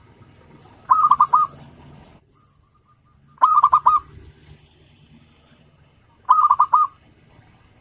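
Zebra dove (perkutut) cooing: three short phrases of quick staccato notes, one about every two and a half seconds.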